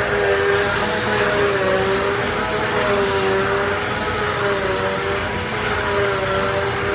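Bissell Easy Vac model 3130 vacuum cleaner running: a steady motor whine over a rushing hiss of air, its pitch wavering slightly as it is worked.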